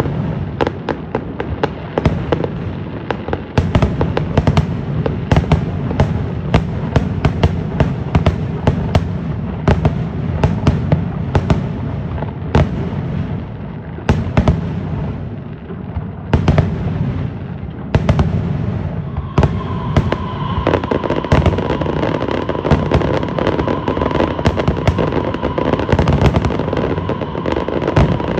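Fireworks show: a dense, rapid barrage of cracks and bangs over a constant low rumble. About two-thirds of the way through, a steady high tone joins in.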